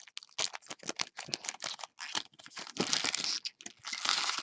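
Baseball card-pack wrappers crinkling and tearing as packs are opened and handled: a run of quick crackles, then two longer rustling stretches, one in the middle and one near the end.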